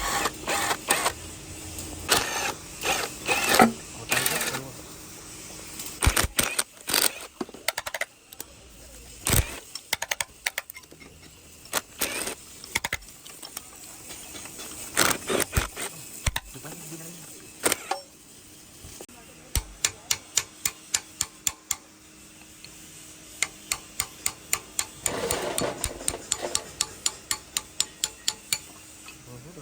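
Hand tools working on a diesel engine being taken apart: scattered metal clinks and knocks, then two runs of quick, evenly spaced clicks, about four a second, in the second half.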